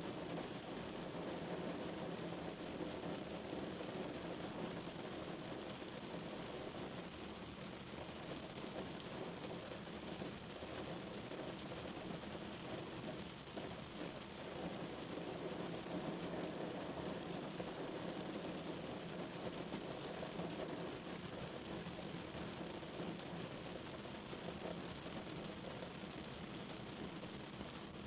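Rain falling steadily on a car, an even patter with no breaks.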